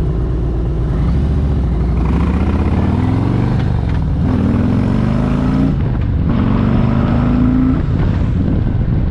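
Harley-Davidson Street Glide Special's Milwaukee-Eight 107 V-twin with a Tab Performance exhaust, accelerating hard up through the gears. The engine pitch rises in three pulls, broken twice by short gaps at the gear changes, then settles as the bike reaches cruising speed.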